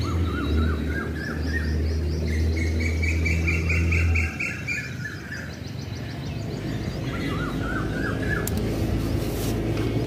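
Birds chirping in quick trills: several short phrases of rapidly repeated high notes. A steady low hum underneath stops about four seconds in.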